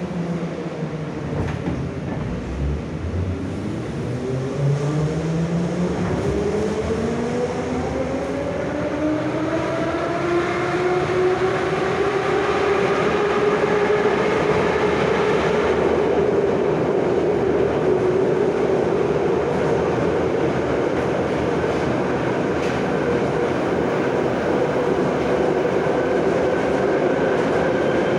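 Moscow metro 'Nomernoy' (81-717/714) train pulling away and gathering speed: the traction motor whine rises in pitch over the first dozen seconds, then holds nearly steady at running speed over the rumble of the wheels on the rails.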